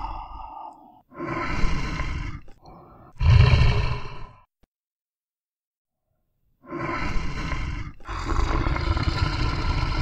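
Big cat growling and roaring in separate calls: a shorter one about a second in, then a louder, deeper one, then after two seconds of dead silence a long drawn-out growl that runs on.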